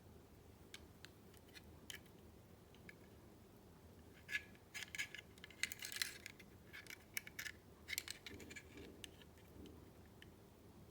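Paper being handled close up: scattered small ticks and taps, with a busier stretch of crisp rustling and clicking in the middle.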